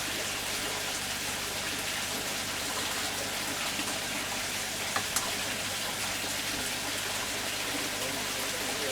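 Steady splashing and trickling of water, with two sharp clicks about five seconds in.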